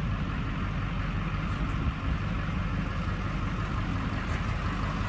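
Vehicle engine running steadily at idle, a low even drone heard from inside the cab.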